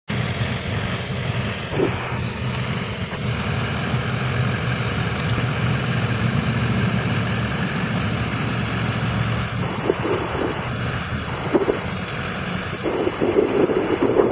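Chevrolet Silverado 3500's 6.6 L LLY Duramax V8 turbo-diesel idling steadily, with wind buffeting the microphone near the end.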